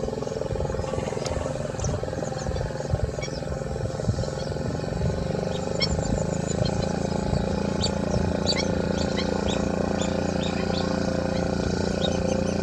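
Wetland birds calling, with many short high chirps throughout, over a steady low hum that grows stronger about five seconds in.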